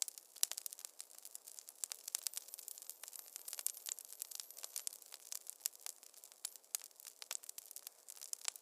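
Fireplace fire crackling: a steady stream of irregular snaps and pops, some sharper than others.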